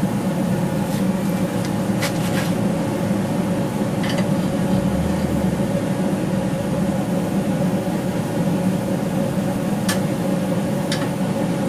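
Steady machine hum from an electric motor or blower running at a constant pitch, with a few light clicks.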